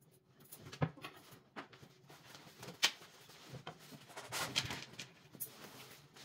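Household objects being handled during cleaning and tidying: two sharp knocks, about a second in and again near three seconds, among softer clicks, with rustling and scraping midway through.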